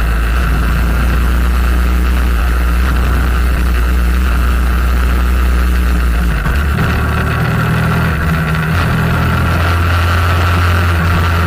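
Motorcycle engine running steadily under way. About six and a half seconds in, its low note steps up to a higher pitch and holds there.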